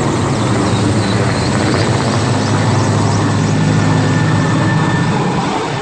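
Mi-8 twin-turbine helicopter running at close range: loud turbine noise with a rapid, steady chop from the main rotor, easing off slightly near the end.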